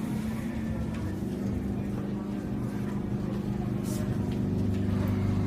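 Keio 8000 series electric train pulling away, heard from inside the car: the traction motors and inverter give a set of steady tones that set in within the first second, with running noise slowly growing louder as it gains speed.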